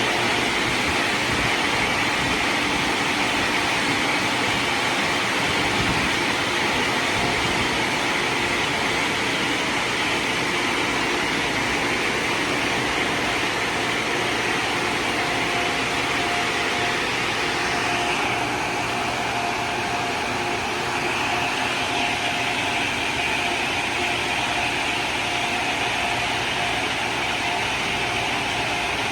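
LaserWash 360 Plus touchless automatic car wash running: a steady, loud rush of water spray and machinery, with a steady hum joining and the sound shifting a little past halfway.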